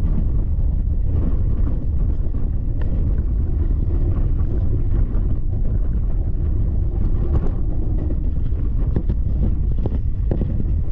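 MEMU electric multiple-unit train running along the track: a steady low rumble of wheels on rails, with wind buffeting the microphone and scattered light clicks.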